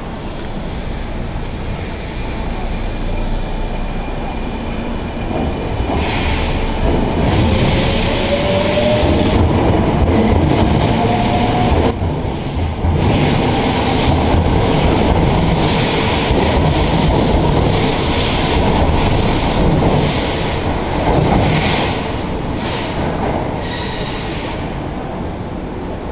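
Hanshin electric train running on the rails: a steady rumble that grows louder a few seconds in and eases off near the end. A motor tone rises in pitch in the middle, with rattling rail noise throughout the loud stretch.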